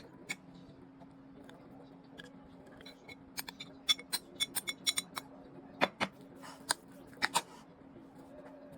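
Kitchen scissors snipping: a run of sharp, irregular clicks, bunched in the middle, over a steady low hum.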